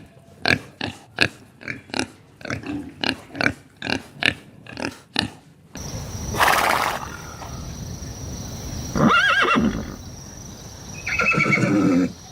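Farm animal calls: a fast run of short calls, about two a second, for the first half. Then a different animal calls twice over a steady noisy background in the second half.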